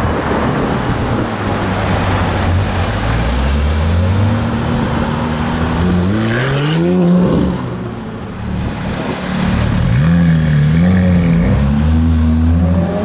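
Porsche 991 GT3 flat-six with an IPE (Innotech Performance Exhaust) system running at low speed. About six seconds in it gives one short rev that rises in pitch and falls back. Near the end the pitch wavers briefly before it settles again.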